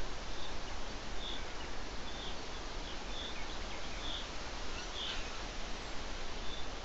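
A small bird repeating a short, high chirp about once a second, over a steady hiss.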